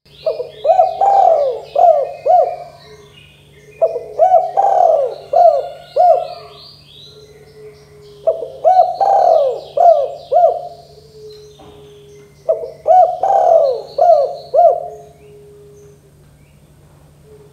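Spotted dove (tekukur) cooing: four repeated phrases of several quick rising-and-falling coo notes, a few seconds apart, with fainter high chirps of small birds behind and a low steady hum.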